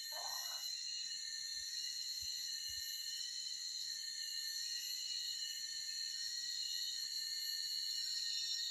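Forest insects, crickets or cicadas, keeping up a steady, shrill chorus of overlapping high-pitched drones. A brief, lower call sounds in the first half-second.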